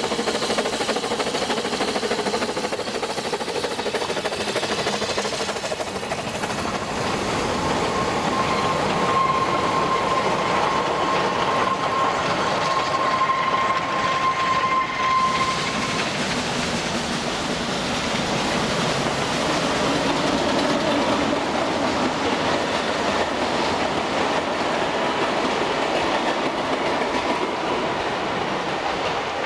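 Ffestiniog Railway narrow-gauge steam train running along the line, a steady rumble and clatter of wheels on rail, with a thin, steady high squeal lasting several seconds in the middle.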